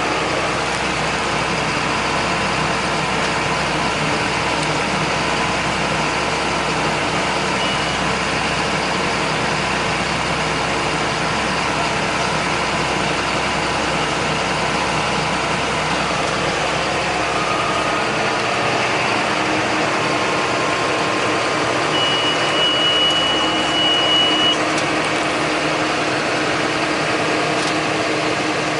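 John Deere 8100 tractor's six-cylinder diesel engine running steadily while it pulls a John Deere 466 baler, with the baler's working mixed in. The deepest rumble drops away about two-thirds of the way in. A steady high electronic beep sounds for about two and a half seconds near the end, with a short blip earlier.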